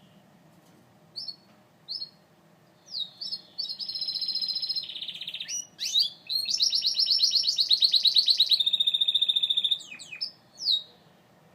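Gloster canary singing: two short chirps, then a long phrase of fast trills of repeated high notes that change speed and pitch several times, and one last single note near the end.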